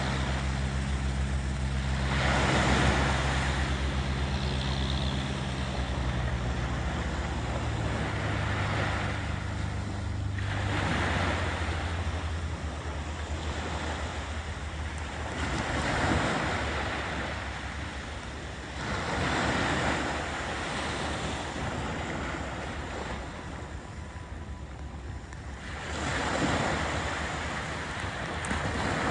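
Sea waves washing onto a beach, swelling and fading every few seconds. For the first third a low engine drone runs under them, dropping in pitch and fading out.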